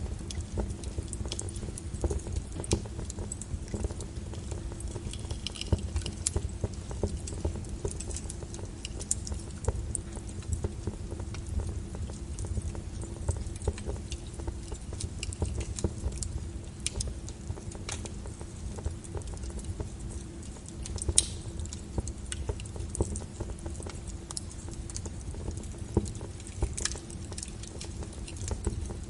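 Wood fire crackling in a fireplace: irregular sharp pops and snaps over a steady low rumble of burning, with one louder pop about three quarters of the way through.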